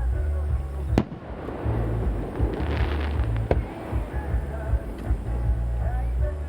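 Fireworks bursting with music playing: two sharp bangs, about a second in and about three and a half seconds in, with crackling sparks between them, over music with a heavy low end and a melody.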